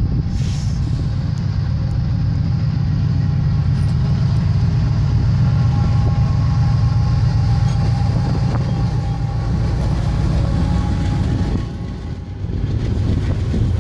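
Two GE diesel-electric freight locomotives, a BNSF ET44C4 leading a CSX AC60CW, running past close by with a loud, steady low engine rumble. About twelve seconds in the locomotives are past, the level dips, and the rolling noise of the autorack cars behind them takes over.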